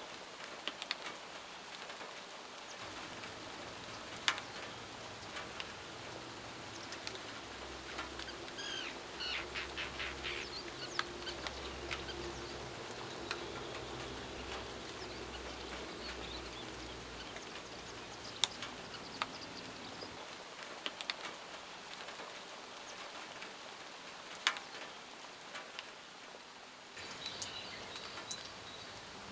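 Steady hiss of light rain with scattered sharp drips. A bird gives a quick run of high repeated notes about nine seconds in, and another short high call near the end.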